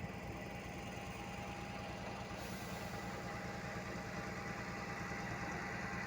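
Heavy diesel engine idling steadily, with an even low pulsing.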